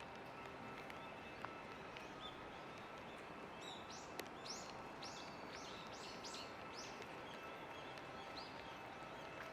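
A small songbird calling a quick run of about eight high chirps midway, over a steady background hiss of rain, with a few faint ticks.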